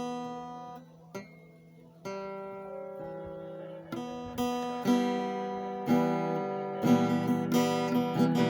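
Background music: acoustic guitar plucked chords, one about every second, growing fuller and louder into steady strumming near the end.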